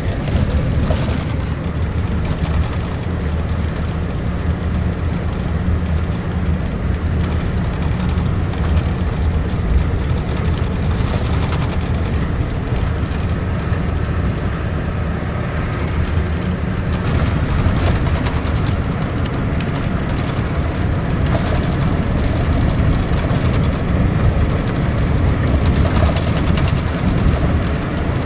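Steady low drone of a Scania K410iB double-decker coach under way, heard from inside the cabin: the diesel engine running together with tyre and road noise.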